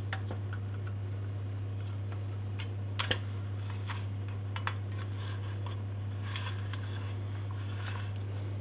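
Vintage Boomaroo toy washing machine running: a steady low hum with scattered light clicks and taps, the loudest pair about three seconds in.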